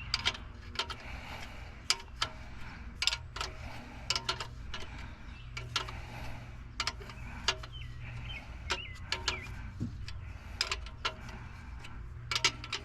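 Irregular metallic clicks and clinks of a wrench working the fuel injector fittings on a 7.3 L IDI diesel engine, over a steady low hum.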